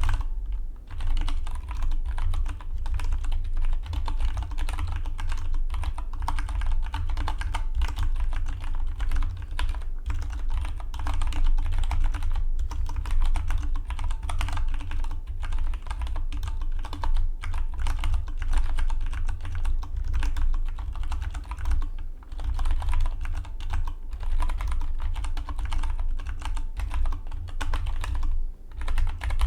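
Fast, continuous typing on a Dygma Defy split mechanical keyboard: a dense run of key clicks, broken by a few brief pauses.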